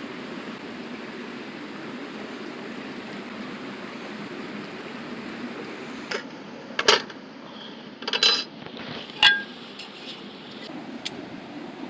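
Steady rush of flowing river water, then from about six seconds in several sharp metallic clinks of cookware, such as a pan, its lid or a utensil, one of them ringing briefly.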